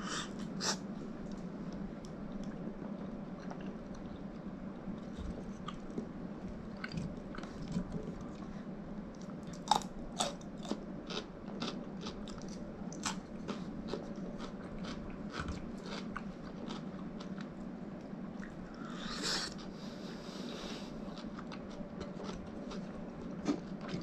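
Chewing and crunching on crisp cooked fish: irregular sharp crunches, most frequent in the middle, with a short, louder spell of chewing a few seconds before the end, over a steady low hum.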